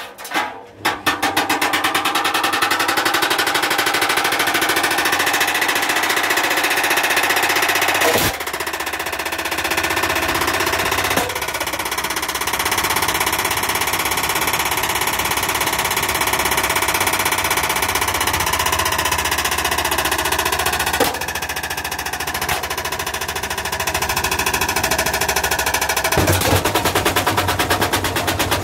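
Washing machine running hard, its drum knocking and rattling in a fast, steady stream of impacts, as in a machine being run to destruction; it starts about a second in and changes its note a couple of times.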